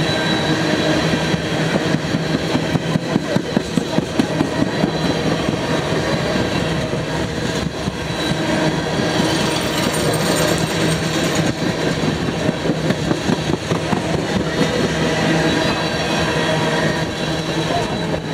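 Freight train of tank cars rolling past at close range, a steady rumble of steel wheels on rail with runs of rhythmic clickety-clack from the wheels, one near the start and another in the second half.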